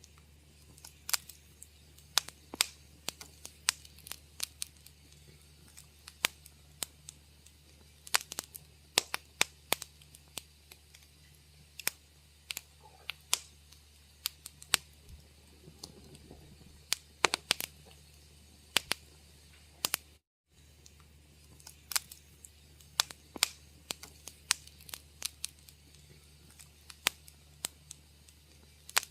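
Wood fire crackling in a fireplace: irregular sharp pops and snaps, sometimes several in quick succession, over a faint steady low hum. The sound cuts out for a split second about twenty seconds in.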